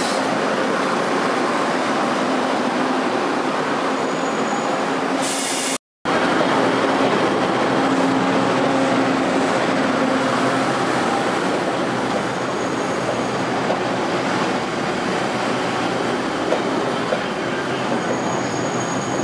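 Passenger trains running along a station platform: a steady rumble of wheels on the rails and running gear, with a low hum. It breaks off for a moment about six seconds in, and the second train is a Pingxi Line diesel railcar pulling out of the station.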